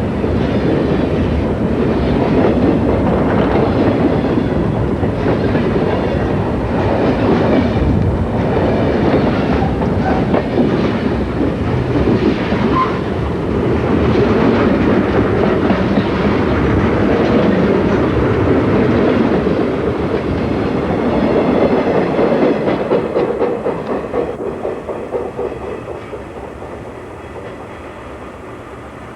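Southern Pacific freight train rolling past, its wheels clicking over the rail joints. The sound fades away over the last several seconds as the train moves off.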